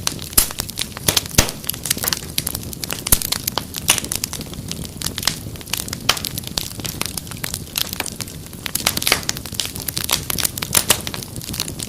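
Wood fire crackling and popping: dense, irregular sharp snaps and pops over a low steady rush of flame.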